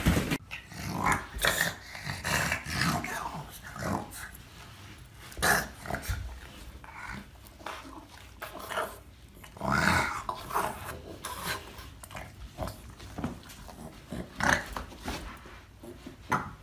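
Dog growling and grumbling in irregular bursts, some louder than others.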